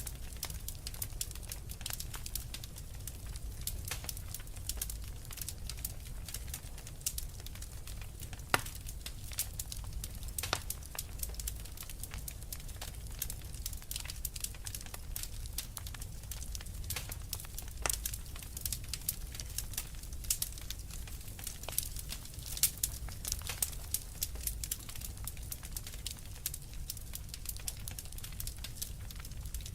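Wood fire crackling and popping in a fireplace: irregular sharp snaps over a low steady rumble of the flames, with a louder pop about a third of the way in.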